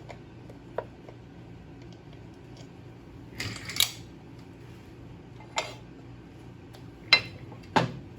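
Metal hand tools and small engine hardware clinking and knocking as a motorcycle engine is taken apart: a handful of separate sharp clinks, a quick cluster about halfway in and two louder ones near the end, over a steady low hum.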